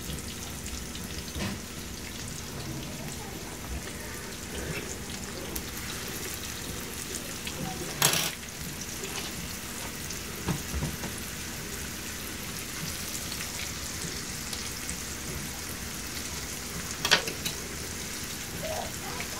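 Flour-dredged beef liver frying in oil in a nonstick skillet, a steady sizzle. Two short, louder bursts of sizzle, about eight and seventeen seconds in, as more pieces of liver are laid into the hot oil.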